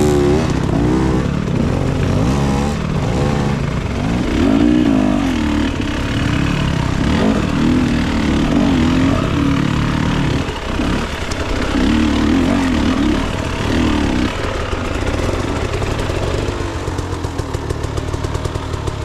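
Dirt bike engine revving up and down again and again under the throttle, as when working over rough ground. After about two thirds of the stretch it runs more evenly at lower revs.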